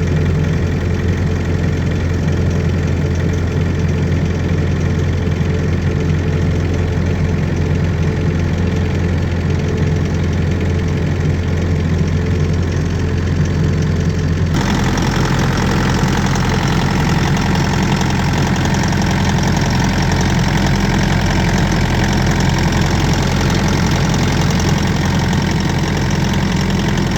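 Volvo ECR58D mini excavator's Kubota diesel engine idling steadily in freezing cold after a cold start. About halfway through the sound changes abruptly and becomes brighter, with more diesel clatter.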